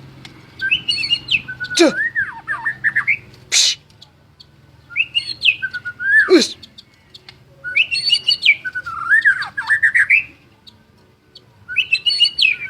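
White-rumped shama (murai batu) singing in four bouts of fast, varied whistled phrases with short pauses between them, a few notes sliding steeply down in pitch.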